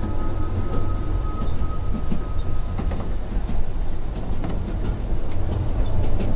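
A moving train's steady low rumble, heard from inside a passenger carriage, with light scattered clicks. A faint high steady whine stops about halfway through.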